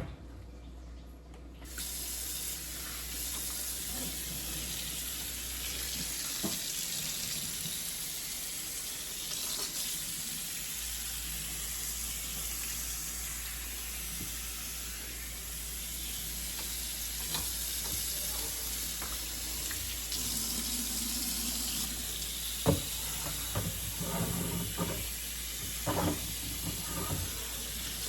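Kitchen faucet running into a sink, turned on about two seconds in, with a few knocks and clatters of items being handled in the sink near the end.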